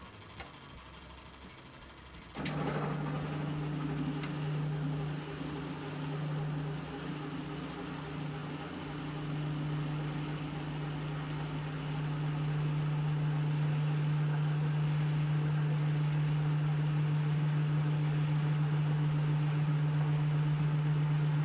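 Kenmore/Whirlpool washing machine motor starting about two seconds in and running with a steady hum, growing a little louder about halfway through.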